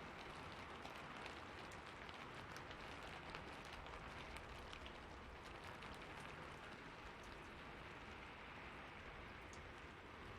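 Steady rain falling: an even hiss sprinkled with many small, quick drop ticks.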